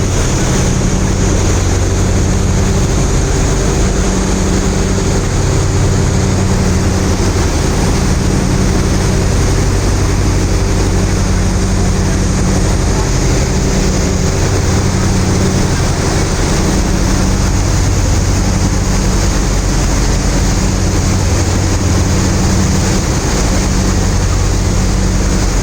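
A steady low engine hum that swells and fades every second or two, over a constant rushing of wind and water.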